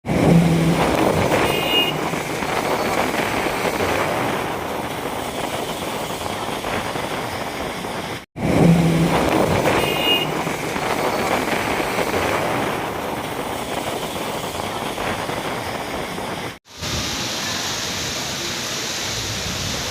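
Street ambience during a rainstorm: road traffic under a constant noisy wash. A stretch of about eight seconds plays twice, cut by brief dropouts, and a steady, even rain hiss follows near the end.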